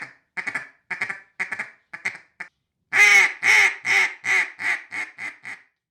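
Hand-made, lathe-turned Poddy Bay Custom duck call from the Classic Black Duck series, blown to make quacks: a run of about seven short quacks that fade towards the end. After a short pause comes a loud string of about nine quacks that get shorter and quieter.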